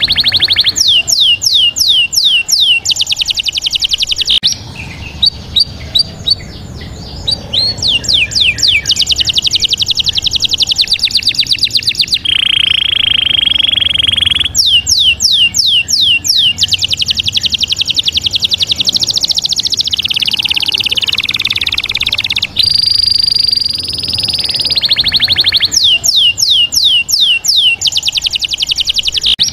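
Bird song: phrases of rapid, high, downward-sweeping whistled notes and fast trills, repeating over and over, with a steady high whistle partway through.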